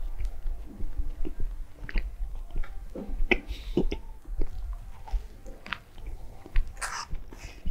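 A person chewing a McDonald's Crispy McBacon burger close to the microphone: irregular wet smacks and short clicks of the mouth, with a bite into the burger.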